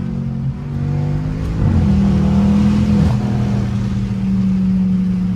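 BMW 550i's twin-turbo V8 running through catless downpipes and a straight-piped exhaust while driving. The engine note holds steady, then steps up in pitch and gets louder about two seconds in and holds there.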